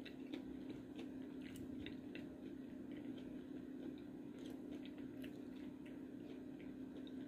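Faint chewing of a Reese's peanut butter cup with potato chips, with soft scattered clicks from the mouth, over a steady low hum.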